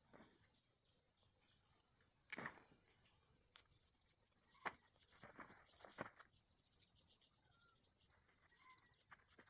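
Faint, steady high-pitched drone of insects, with a few short knocks and rustles about two and a half, four and a half, and six seconds in.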